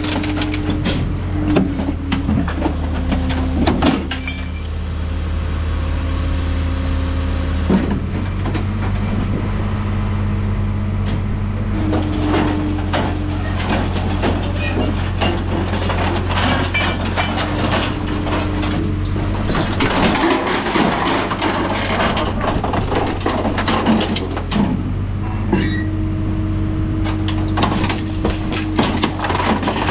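Scrap metal shear running, its engine and hydraulics droning steadily with a hum that starts and stops every few seconds as the machine cycles. Scrap metal clanks and knocks throughout as it is fed and cut.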